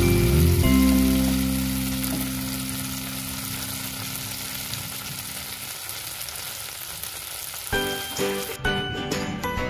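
Chili, garlic and shallot sauce paste sizzling in hot oil in a frying pan as it is stirred with a spatula, a steady hiss. Background music with long held notes fades out over the first few seconds, and a new tune with regular beats starts near the end.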